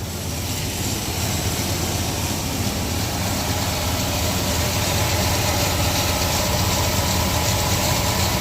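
1996 GMC Sierra C1500's 4.3-litre V6 idling steadily at operating temperature, pretty smooth. It grows a little louder over the first few seconds.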